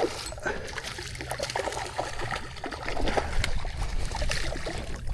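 Water trickling and splashing at the side of a kayak as a small redfish is brought up and landed, with scattered light taps and knocks.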